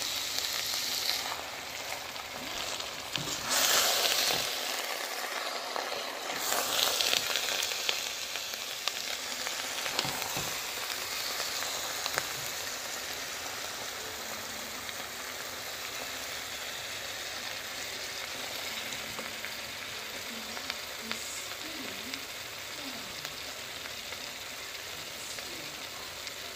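Spinach and shrimp sizzling in a pot while being stirred with a spoon, a steady hiss that swells louder twice in the first several seconds.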